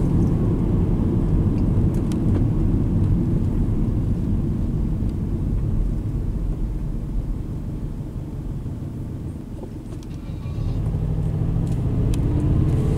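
Boxer engine and road noise inside the cabin of a Subaru Legacy Blitzen driving in traffic: a steady low rumble. The engine eases off about eight seconds in and picks up again about ten and a half seconds in as the car pulls on through the intersection.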